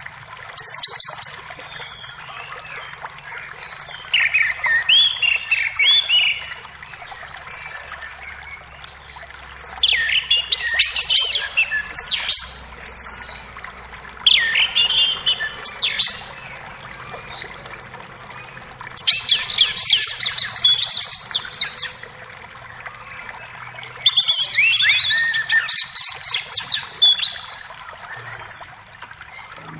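Several birds singing over the steady sound of a running creek. One bird repeats a short high note every second or two. Others break in several times with bursts of fast, falling whistled notes.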